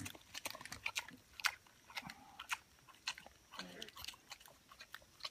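Pig chewing and crunching food: irregular crisp crunches several times a second.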